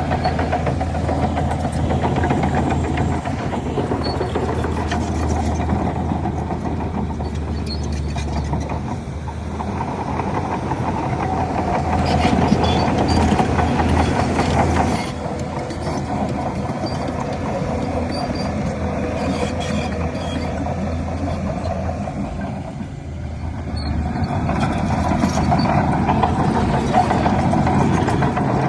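Heavy diesel earthmoving machinery running steadily: the engines of dump trucks and a bulldozer, working louder about twelve seconds in and again for the last few seconds.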